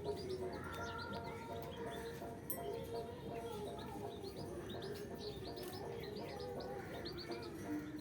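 Birds chirping: many short, quick chirps in rapid scattered runs throughout, over background music with an evenly repeating note.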